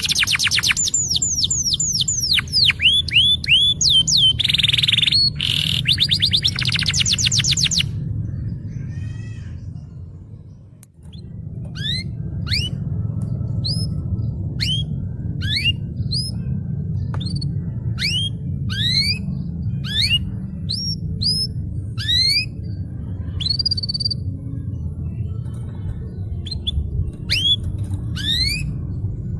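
Domestic canary singing: fast rolling trills of repeated falling notes for the first several seconds, then, after a brief dip, slower separate rising notes about one or two a second. A steady low hum lies beneath.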